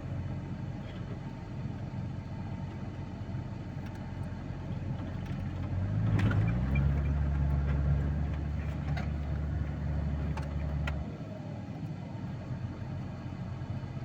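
Truck engine idling, then revved up about six seconds in and held at higher revs for about five seconds before dropping back to idle.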